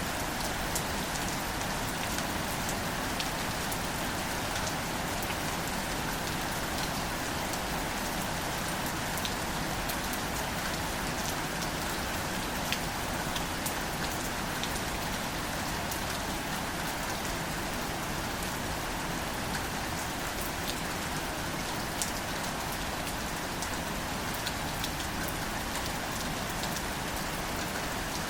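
Steady rain falling on plants, an even hiss with scattered individual drops ticking on leaves.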